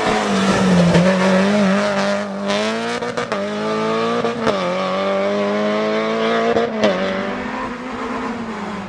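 Renault Clio rally car's engine revving hard under full acceleration. Its pitch climbs and drops sharply at two upshifts, about four and a half and about seven seconds in, then sinks as the car backs off near the end.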